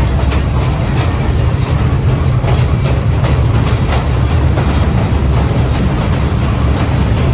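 Great Smoky Mountains Railroad passenger car rolling along the track, heard from on board: a steady low rumble with irregular clicks and clatter of the wheels over the rails.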